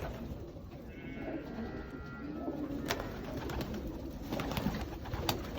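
Young racing pigeons cooing together in a loft, with a few sharp clicks, the loudest about three seconds in and another near the end.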